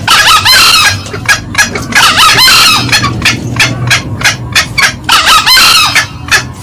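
Green junglefowl calls: three loud, harsh crows about two and a half seconds apart, over a steady run of short, sharp cackling notes, several a second.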